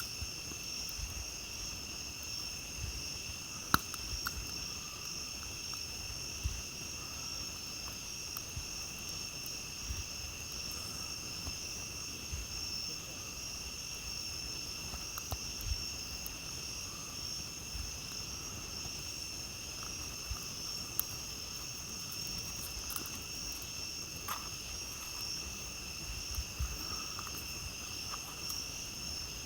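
Steady high chorus of crickets and other night insects, with a campfire crackling underneath and giving scattered sharp pops, the loudest about four seconds in.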